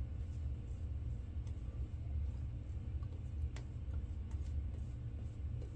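A steady low rumble throughout, with a few faint, short scrapes about three and a half to four and a half seconds in, typical of safety-razor strokes on lathered stubble.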